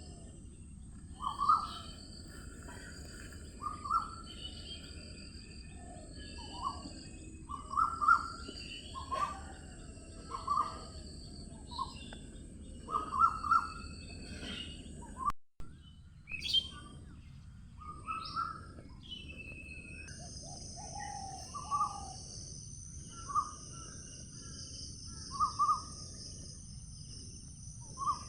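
Birds calling in short, repeated calls every second or two over a steady high insect hiss; the sound drops out for an instant about halfway through, and a second high hiss joins later.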